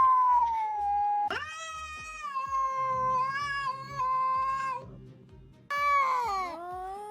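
Domestic cat yowling in long, drawn-out meows, the longest lasting about three seconds, with a call near the end that slides down in pitch. Background music with a steady beat plays underneath.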